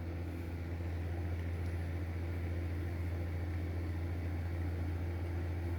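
Electric room heater running: a steady low hum with a light hiss.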